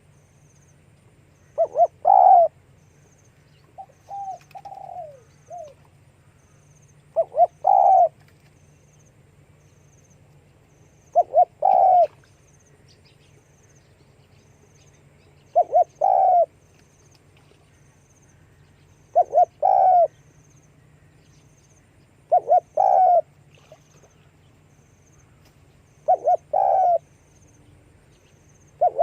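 Spotted dove cooing: each call is two short clipped notes followed by a longer coo, repeated about every four seconds, with a few softer, lower coos after the first call.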